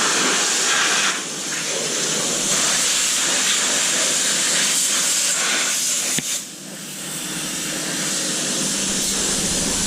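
Water spraying hard from a hose nozzle onto an engine bay, a steady loud hiss that dips twice, about a second in and again past the middle, as the spray is moved or let off.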